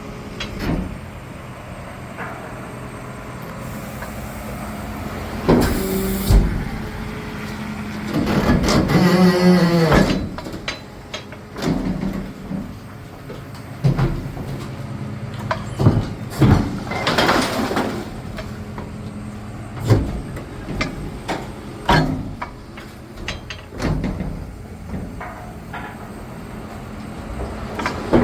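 Diesel engine of an Iveco Stralis garbage truck running steadily, with clanks and knocks throughout from the FAUN Variopress refuse body working. Short air hisses come about six seconds in, and a wavering whine about nine to ten seconds in.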